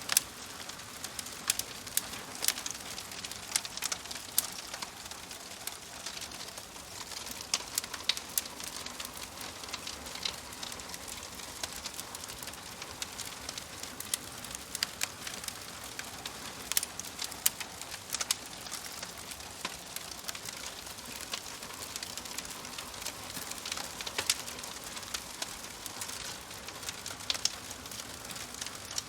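Wood burning in a wood stove, crackling: a steady soft hiss with irregular sharp pops and snaps.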